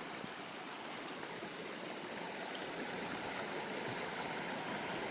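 Clear spring-fed water running steadily over rocks, a continuous rush and splash that grows slightly louder toward the end.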